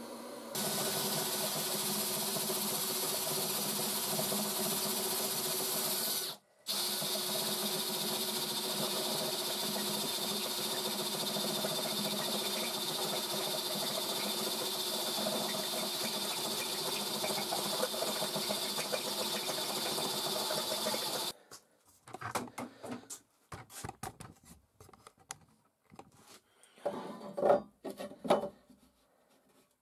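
A machine running steadily, a hiss with several steady tones in it, briefly cut off about six seconds in. It stops about 21 seconds in, and irregular knocks and rubbing follow.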